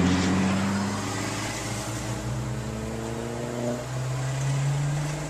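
Car engine accelerating, heard from inside a moving car, its pitch rising steadily; about four seconds in the pitch drops and starts climbing again.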